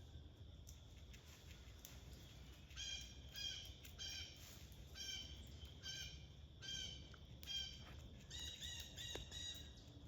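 A bird calling repeatedly in short calls, starting about three seconds in and coming faster near the end.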